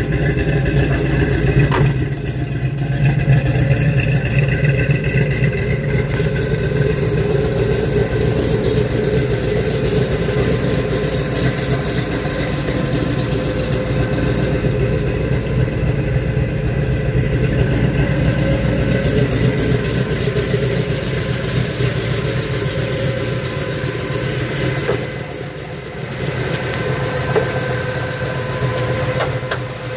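A 1970 Ford Mustang Mach 1's V8 engine idling steadily, with a brief dip in loudness near the end.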